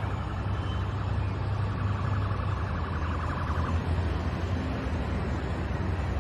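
Steady low rumble of city street noise, with a faint, fast-warbling siren in the first few seconds.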